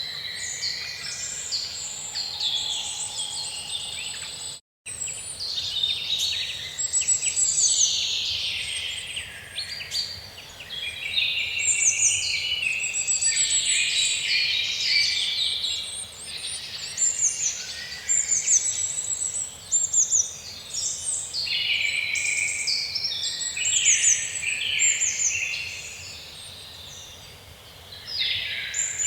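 Many small birds chirping and singing at once, a dense chorus of overlapping trills and quick repeated notes. The sound cuts out completely for a split second about five seconds in.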